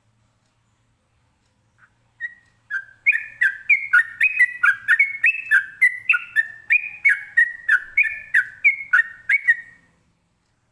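Yellow-vented bulbul (trucukan) singing a long, rapid run of short repeated notes, about three a second, in the 'ropel' style. The song starts about two seconds in and stops near the end.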